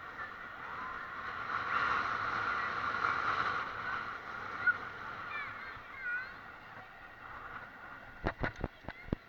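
Steady rushing noise of a bicycle ride in motion, with faint high warbling calls now and then. A quick run of five or six sharp knocks comes near the end.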